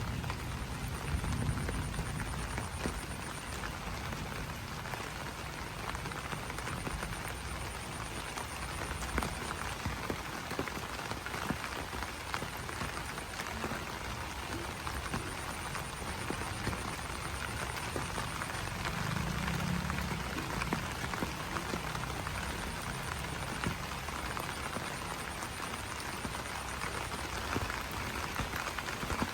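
Steady rain falling on broad banana leaves: a dense patter of individual drop ticks over a constant hiss. A couple of low calls come through about a second in and again near the twenty-second mark.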